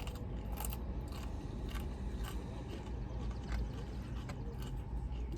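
A person chewing and biting food close to the microphone, with a few short sharp crunches or clicks, over a steady low hum.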